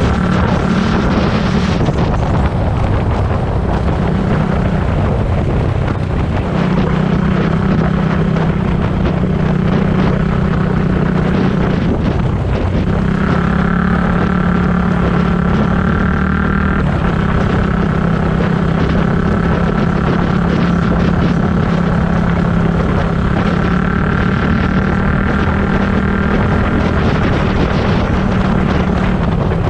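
Dirt bike engine running at fairly steady revs, with heavy wind noise on the microphone; the engine pitch steps to a new level a few times, around a quarter and halfway through.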